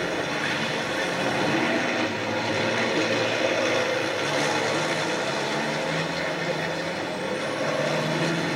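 Racing truck engines running hard at speed on a circuit: a steady drone of several engines whose pitch slowly shifts up and down.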